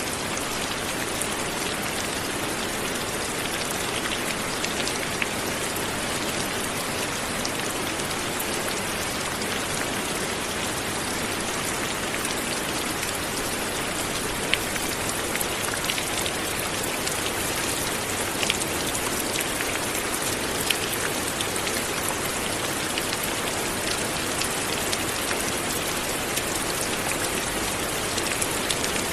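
Light, steady rain falling on surfaces, a dense even hiss with scattered individual drop ticks.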